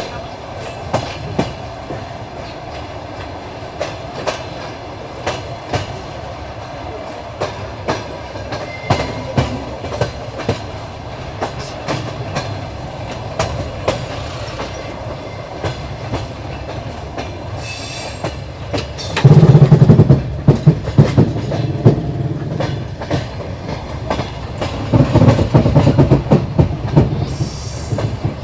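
Passenger train carriage running along the track, its wheels clicking regularly over the rail joints under a steady rumble. The clatter grows louder and denser twice, about two-thirds of the way in and again near the end.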